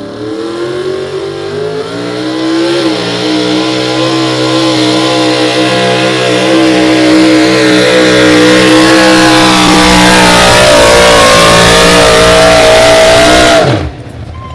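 Super stock 4x4 pulling truck's engine at full throttle under load, loud, its revs climbing steadily through the run. Near the end the throttle is cut and the engine note drops away suddenly.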